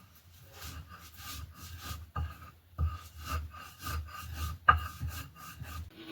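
Rhythmic rubbing or rasping strokes, about two to three a second, with one sharp knock a little before the end.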